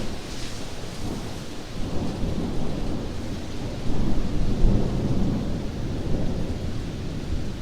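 Thunder rumbling low under a steady downpour of heavy rain, the rumble swelling about four seconds in.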